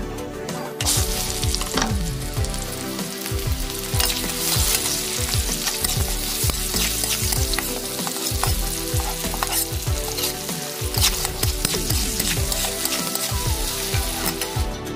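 Sliced onions sizzling in hot oil in a steel wok, starting about a second in, as they are stirred and turned with a flat metal spatula.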